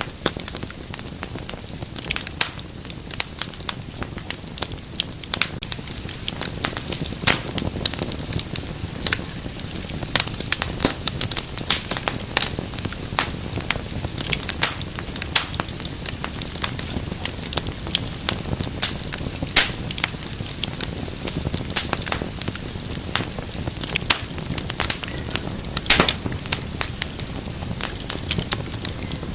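Wood fire crackling and popping, with frequent irregular sharp snaps over a low steady rush of flame.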